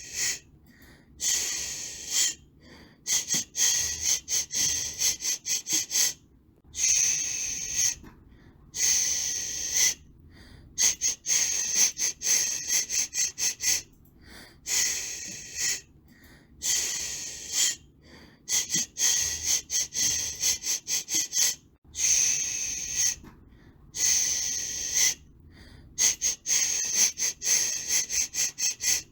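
A person shushing to soothe a baby: long, loud "shhh" hisses alternating with runs of quick, short "shh" sounds, broken by brief pauses.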